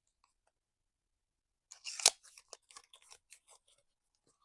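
A deck of playing cards being shuffled by hand: a quick flurry of papery clicks about two seconds in, thinning out into a few separate card flicks.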